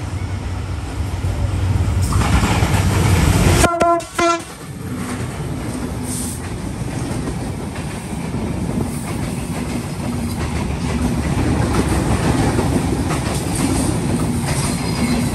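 Diesel locomotive of a passenger express running hard as it approaches, with a brief horn blast about four seconds in. Then the intercity coaches rush past at speed, their wheels clattering over the rail joints.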